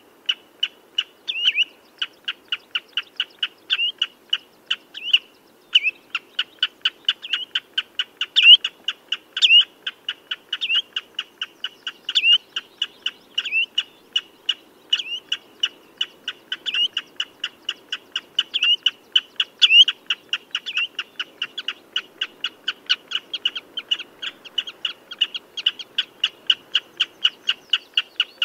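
Common redshank calling: a fast, steady series of short sharp piping notes, about two to three a second, some of them louder and slurred downward.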